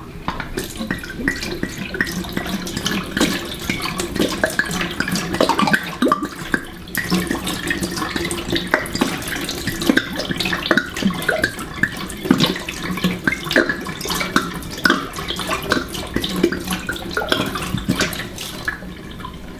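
Water running from a tap into a sink, with steady rushing and irregular splashing.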